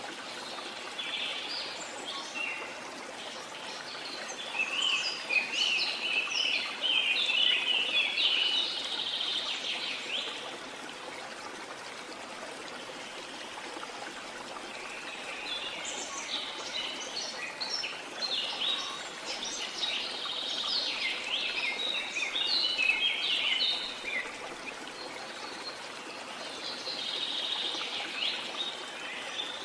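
Songbirds singing in bouts of rapid chirps and trills over the steady rush of a stream, with quieter stretches between bouts where only the water is heard.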